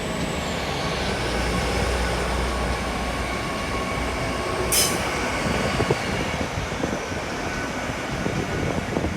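Train moving on the track: a steady rumble, with a high thin squeal that slides down and fades in the first second, and one sharp clank about halfway through.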